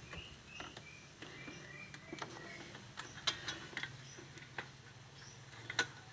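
Irregular metallic clicks and taps of a 17 mm wrench working against the engine coolant temperature sensor as it is tightened, with a few short high chirps over the first two seconds.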